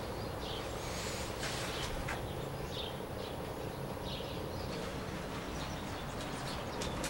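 Faint bird chirps every second or so over steady background noise, with a couple of soft clicks.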